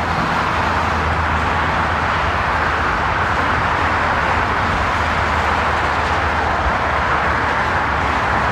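Loud, steady rushing noise with a low hum beneath it.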